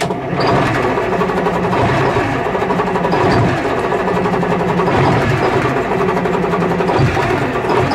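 Diesel bus engine idling with a fast, steady clatter shortly after a cold start in freezing weather.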